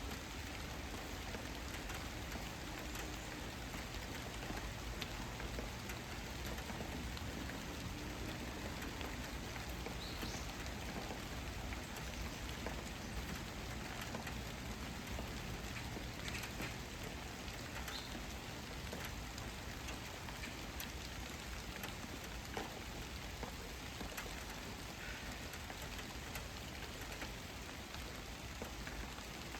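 Steady rain falling on a surface, with many small sharp ticks of drops striking.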